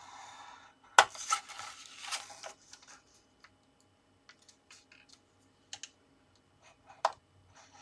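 Scoring tool scraping along cardstock on a scoring board, with sharp clicks and small taps as the tool and card are set down and handled. The loudest click comes about a second in.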